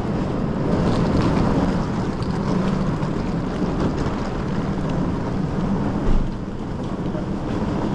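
Steady low rumbling noise with a constant hum underneath.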